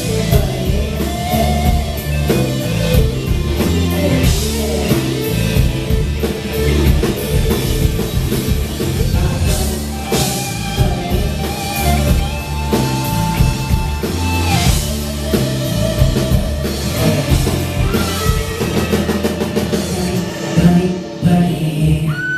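Live K-pop music played loud through a concert PA: a driving drum-kit beat with heavy bass, and a singing voice over it.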